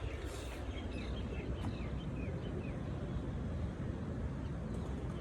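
Small birds chirping, a run of short falling chirps over roughly the first three seconds, over a steady low rumble.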